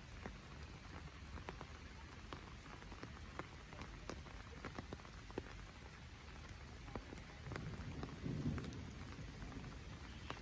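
Steady rain falling, with many separate drops striking close by as sharp ticks. A louder low sound swells briefly about eight seconds in.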